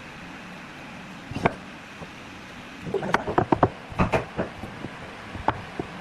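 A single sharp knock, then a quick run of knocks and clatters, then one more knock, over a steady background hum.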